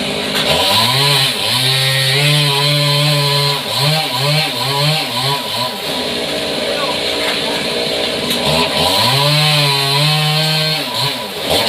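Chainsaw revved up to full throttle and held for about three seconds, let back to idle, blipped several times, then run up and held again for about two seconds. A steady machine hiss runs underneath.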